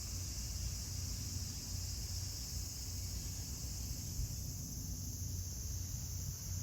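Steady outdoor ambience: an even, high-pitched drone of summer insects over a constant low rumble.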